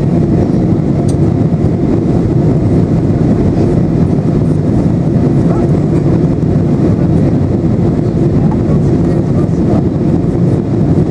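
Steady cabin noise of a Boeing 737-800: its CFM56 turbofan engines and the airflow over the airframe make an even, loud, low rush that does not change.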